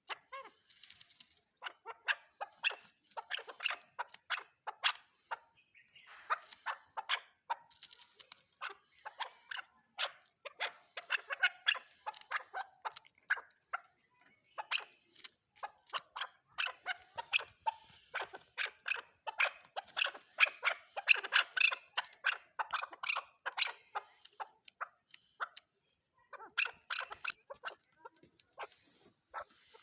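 Chukar partridge calling: rapid runs of sharp, clucking notes lasting a few seconds each, broken by short pauses.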